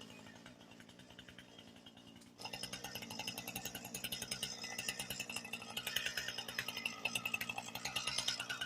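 Mini excavator's engine running steadily, louder from about two and a half seconds in.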